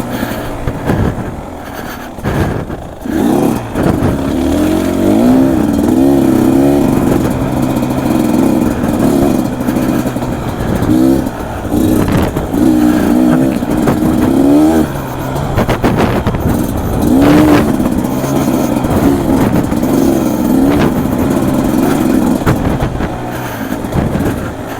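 Beta 250 RR two-stroke dirt bike engine revving up and down repeatedly as it is ridden along a trail, with an occasional knock now and then.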